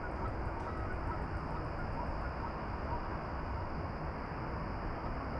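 Steady outdoor ambient noise, strongest in the low range like a rushing rumble, with a faint steady high hum and scattered faint short chirps.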